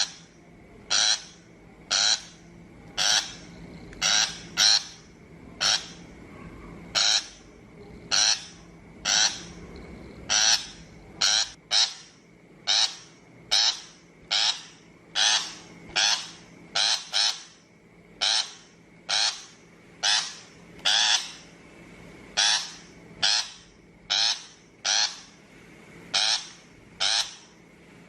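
Shrike giving short, harsh calls, repeated about once a second, now and then two in quick succession.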